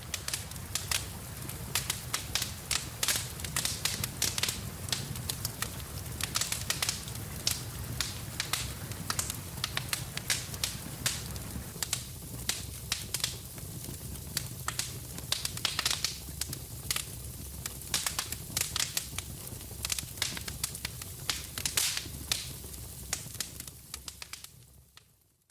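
Wood fire crackling and popping in a fireplace, with many sharp snaps over a steady low rumble of flame. It fades out near the end.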